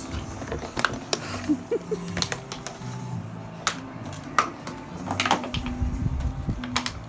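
Scattered sharp clicks and knocks over quiet background music from a film soundtrack.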